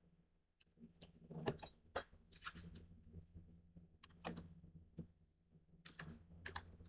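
Faint handling of paper and tape: scattered soft rustles and clicks over a low steady hum.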